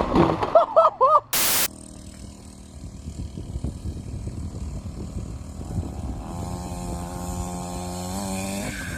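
A short, loud burst of hiss about a second and a half in, then a motorcycle engine running steadily, rising slightly in pitch and getting louder from about six seconds in.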